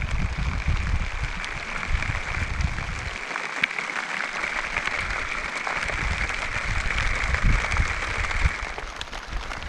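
Heavy rain falling steadily, a dense hiss full of small ticks, with wind gusting on the microphone.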